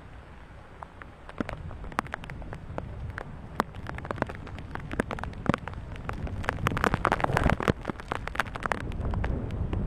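Rain starting to come down hard, with many sharp taps of drops striking close by that grow denser and louder toward the end, over a low rumble of wind on the microphone.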